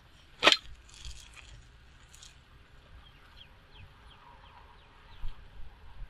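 Plain bicycle with nothing fitted to its wheels, making almost no sound during a sound test. A sharp click about half a second in, faint short high chirps partway through, and a thump near the end.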